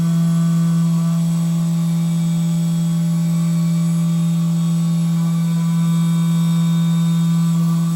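SYIL X7 CNC milling machine running, with a steady low tone and fainter higher tones above it that hold constant throughout.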